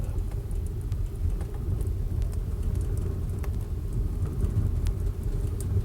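Wood fire in a stove drawing hard, a steady low rumble with scattered faint crackles: a strong draft up the chimney on a windy day.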